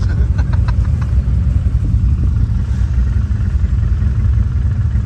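ATV engine running with a steady low rumble, with a few short clicks in the first second.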